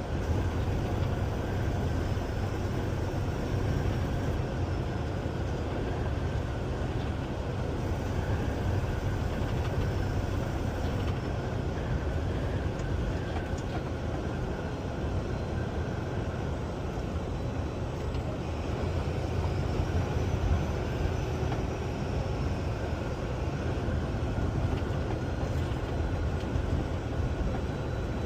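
Steady low rumble of a semi-truck running, with no change in pace.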